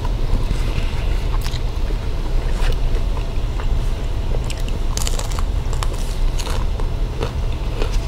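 Close-miked eating sounds of people chewing and biting food: irregular wet mouth clicks and small crunches, over a steady low hum.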